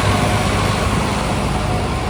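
Heavy diesel engine running steadily, with a dense rushing noise over it.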